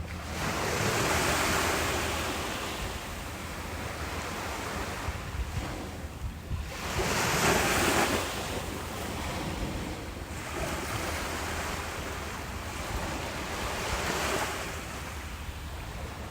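Ocean waves breaking on a beach, each surge swelling and fading in turn, the loudest about eight seconds in, over a steady low rumble of wind on the microphone.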